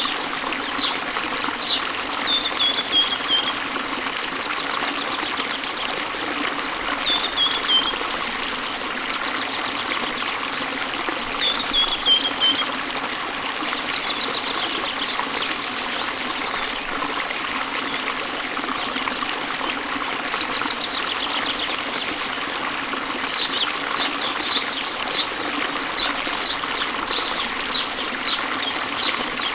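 Steady rush of falling water from a waterfall, with birds singing over it: three short runs of falling notes in the first half and a quick series of sharp chirps near the end.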